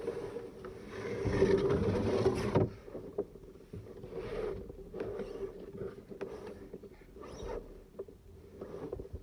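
Canoe paddle strokes in the water: a louder rush of water that stops suddenly, then short splashes about once a second.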